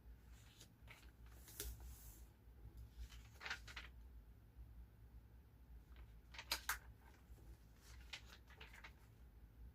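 Faint, brief rustles and light clicks of paper and sticker sheets being handled, the sharpest a quick double click about two-thirds of the way in, over a low steady room hum.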